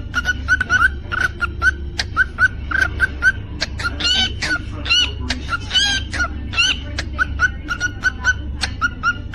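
Cockatiel chirping: short repeated chirps, several a second, with sharp clicks and a few warbling whistled notes in the middle, over a steady low hum.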